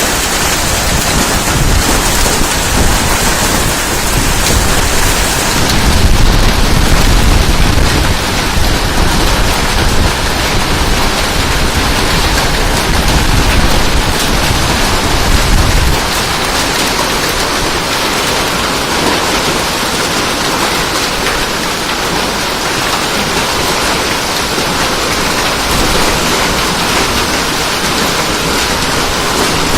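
Hail and heavy rain pouring down in a hailstorm: a loud, dense, steady hiss and patter. A low rumble runs under it through the first half and drops away about halfway through.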